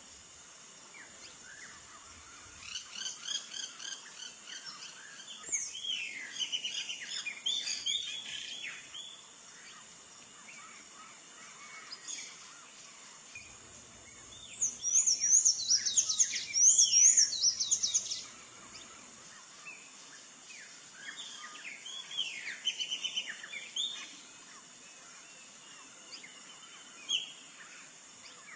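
Sayaca tanager (sanhaçu-cinzento) singing in three bouts of quick, squeaky, rising-and-falling notes, the middle bout the loudest, with one more short note near the end. A steady high hiss runs underneath.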